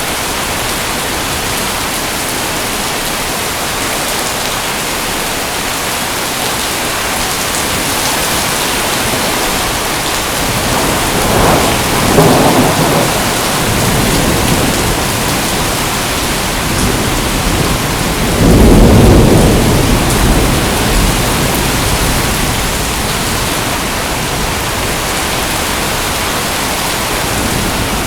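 Steady heavy rain hissing, with two rolls of thunder rumbling through it: one a little before the middle and a louder one about two-thirds of the way in.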